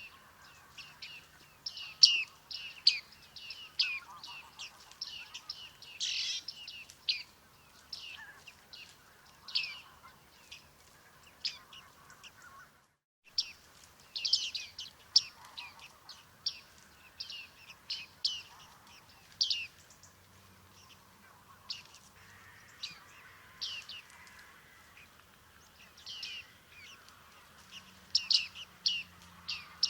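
Bearded tits calling: many short, high calls, several a second, with a brief silent break about halfway through.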